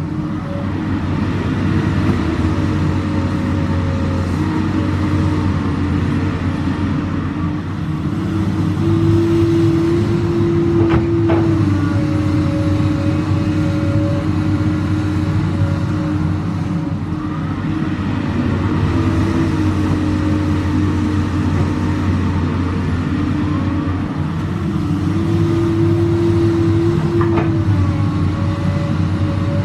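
Komatsu PC200 excavator's diesel engine running steadily, a tone in it lifting in pitch twice for a couple of seconds as the machine works. A brief sharp clank comes with each lift, about eleven seconds in and again near the end.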